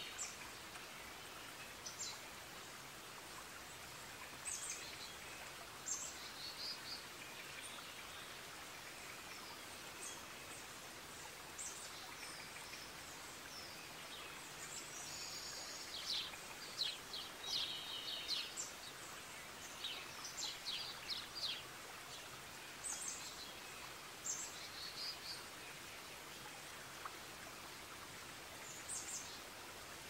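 Forest birds calling: short high chirps and quick trills come and go, busiest around the middle, over a steady soft hiss.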